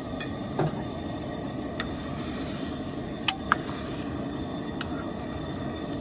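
A pot of stew heating toward a rolling boil on a stove: a steady hiss, with a few light metal clinks against the pot, the two loudest close together about three and a half seconds in.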